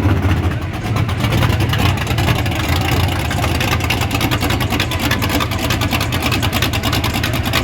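A car engine running loud and close, with a deep drone and a rapid, rough pulsing from the exhaust.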